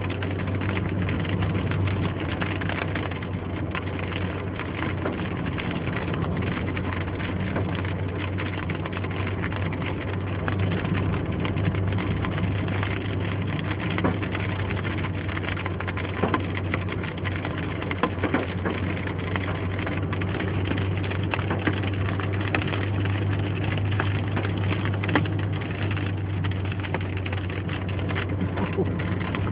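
Car driving in rain: a steady low engine and road drone with scattered ticks of precipitation hitting the car.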